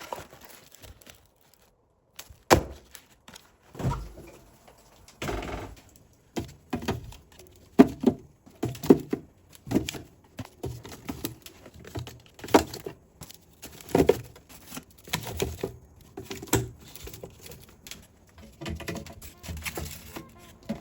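Irregular knocks and clatter of kitchen containers and food packages being handled and set down during kitchen organising, with a brief silent gap near the start.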